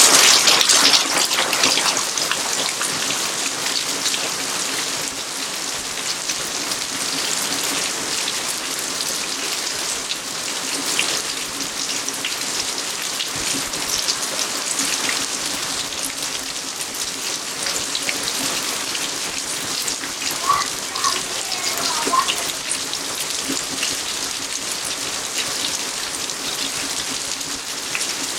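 Steady rain falling, with many individual drops pattering on surfaces. There are a few faint short chirps about three quarters of the way through.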